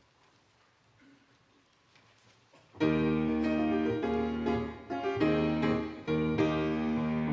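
Near silence, then about three seconds in a piano starts playing the introduction to a choir anthem: full sustained chords changing every second or so.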